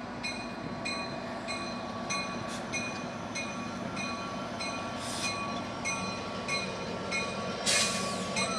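Coaster commuter train, a diesel locomotive hauling bi-level cars, running past with a steady rolling rumble. Through it, a high ringing pattern repeats about three times a second, and a short loud hiss comes near the end.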